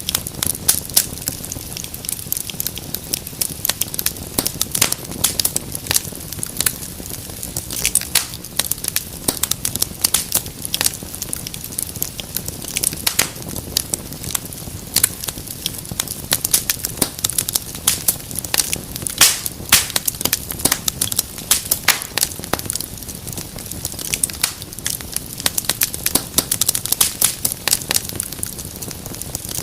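Wood fire crackling steadily: dense, irregular sharp pops and snaps over a low hiss of burning.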